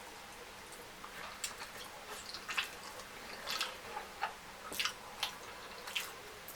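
A person chewing food close to the microphone: a string of short, irregular wet smacks and clicks of the mouth, starting about a second in.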